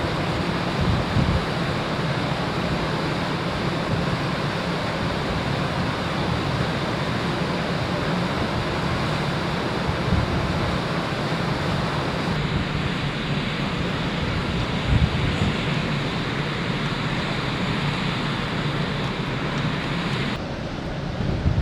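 Wind and rushing sea water around a ferry under way, a steady loud hiss with wind buffeting. The sound changes abruptly twice, about halfway through and near the end, its upper hiss dulling each time.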